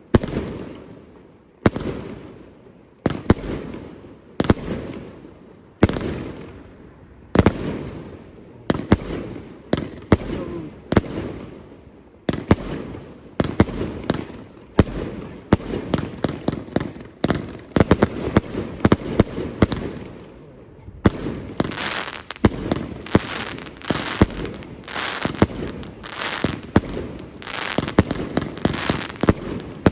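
A 61-shot consumer fireworks cake (Panda-T 'Blue Sea') firing, a heavily loaded cake said to be closer to 2 kilos than its 250-gram label. Single shots come about every second and a half at first. They come faster after about twelve seconds, then turn into a dense rapid volley from about twenty-one seconds in.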